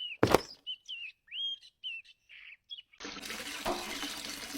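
A sharp click, then a string of short, high chirps like a small bird's, then a steady hiss from about three seconds in.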